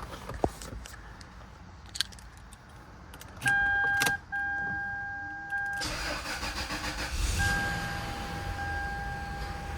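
A few sharp clicks, then a steady electronic warning chime tone from the dash; about six seconds in the Lexus LS 430's 4.3-litre V8 cranks briefly, catches with a surge and settles into a cold-start idle as the chime continues.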